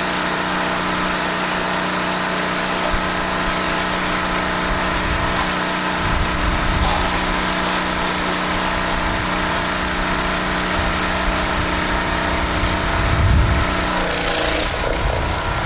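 Gas-engine pressure washer running steadily under load, with the hiss of the spray; about fourteen seconds in its engine note changes.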